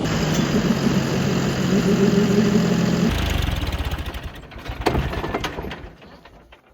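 Tractor diesel engine running steadily; about three seconds in the sound changes abruptly to a lower, rapid knocking idle, which fades away near the end.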